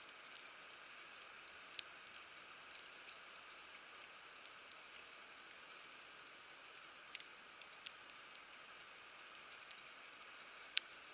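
Wood campfire crackling in a fire pit: a soft steady hiss with irregular sharp pops, the loudest pop near the end.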